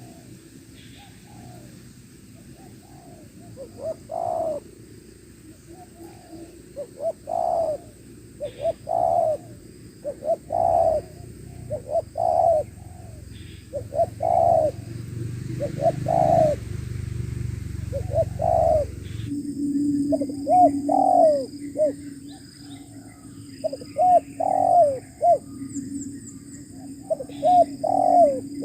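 Spotted doves cooing: a long run of short, low coos, one every second or two, in the call-and-answer of a lure bird and a wild dove.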